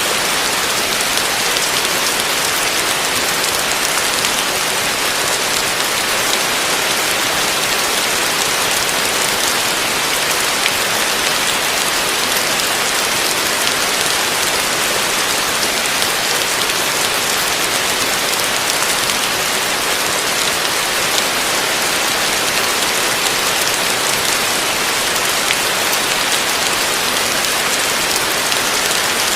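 Heavy rain falling steadily, a dense, even hiss with no breaks or rumbles.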